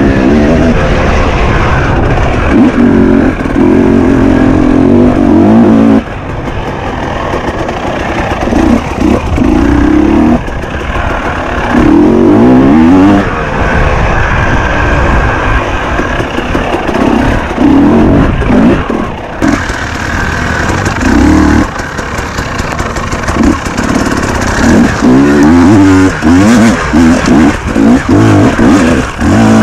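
Enduro dirt bike engine being ridden hard, revving up and easing off again and again, its pitch rising and falling with each burst of throttle.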